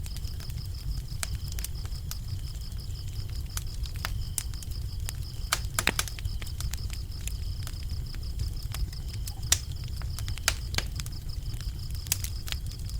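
Wood fire crackling with irregular pops, a few louder ones about halfway through, over a low steady rumble of the flames. Crickets chirp steadily in a high pulsing trill behind it.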